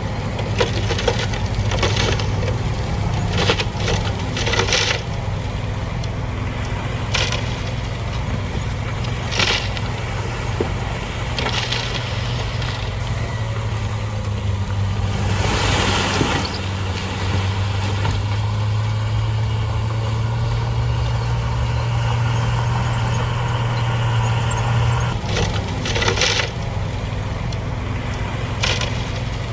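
Heavy diesel earthmoving machinery running steadily, with a constant low engine hum. Short sharp clanks and scrapes of metal and rock recur throughout, and a louder rushing noise of a couple of seconds comes around the middle.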